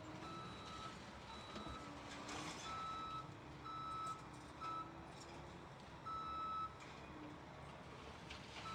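Backup alarm on heavy equipment beeping in repeated pulses over diesel engines running, with a rattle of rubble about two and a half seconds in.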